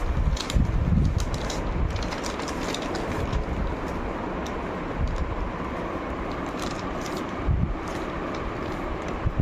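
Food wrapping crinkling and clicking now and then over a steady low rumble.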